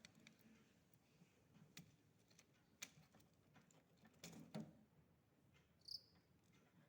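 Near silence: faint scattered clicks and taps, a soft knock about four and a half seconds in, and a brief high chirp about six seconds in.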